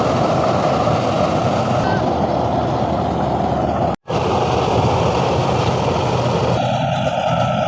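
John Deere 5310 diesel tractor running a tractor-mounted Dasmesh 912 rice harvester, a loud steady engine-and-machinery drone. It breaks off for a moment about four seconds in.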